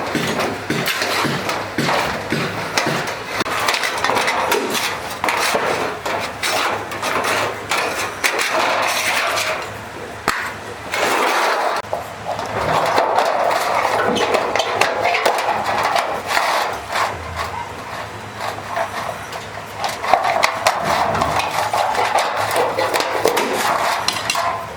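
Music with rapid, repeated hammering knocks and clatter throughout, easing briefly about halfway through.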